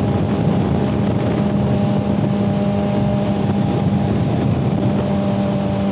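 Suzuki GSX-R600 inline-four engine running at a steady cruise, holding one even pitch, with wind rushing over the rider's microphone.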